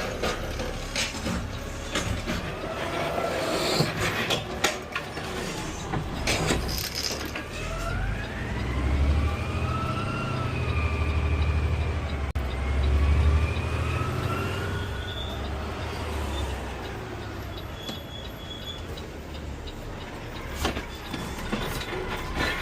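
Peterbilt 520/Amrep automated side-loader garbage truck working, with several sharp knocks early on. Then the engine rumble swells and a hydraulic whine rises and falls twice over about eight seconds, as during an arm cycle.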